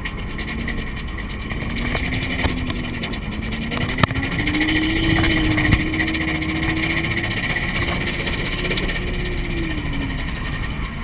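Drift car's engine heard from inside the cabin, the revs climbing through the middle, holding, then dropping away near the end, over steady road and tyre noise. A single sharp knock about four seconds in.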